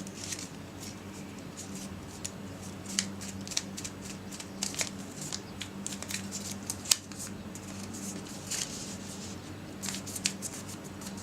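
Square paper being folded and pinched by hand for an origami model: irregular crisp crinkles and creasing clicks, over a steady low hum.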